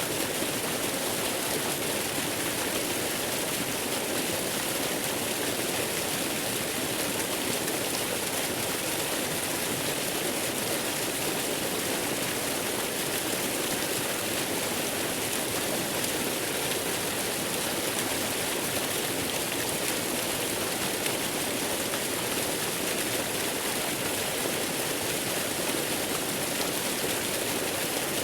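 Steady rushing of a waterfall: an even, unbroken hiss with no single splashes or changes.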